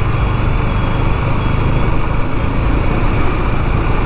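KTM 390 Duke's single-cylinder engine running steadily while riding, mixed with a loud, steady low rumble of wind and road traffic.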